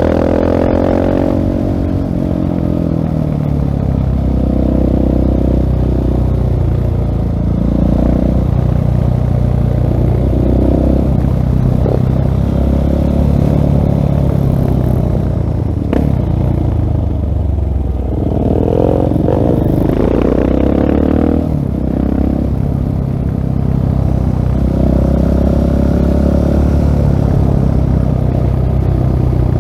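2016 Husqvarna 701 Supermoto's single-cylinder four-stroke engine running through a LeoVince full-system exhaust while riding, revving up and dropping back several times as it accelerates and eases off.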